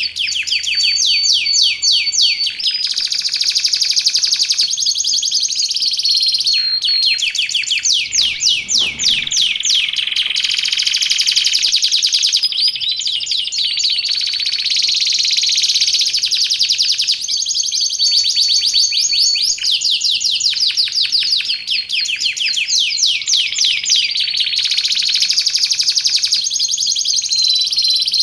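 Domestic canary singing continuously: long runs of rapid trills and rolls broken by held whistled notes.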